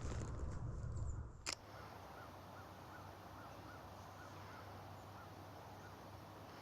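Low rumbling handling or walking noise, cut off by a single sharp click about a second and a half in. After it, a faint animal call repeats about two to three times a second over quiet outdoor background.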